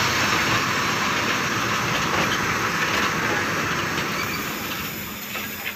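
Coaches of a Bangladesh Railway intercity passenger train rolling along the platform as it arrives at a station. Wheels rumble and clatter on the rails, and the noise fades slowly, with a few clicks near the end.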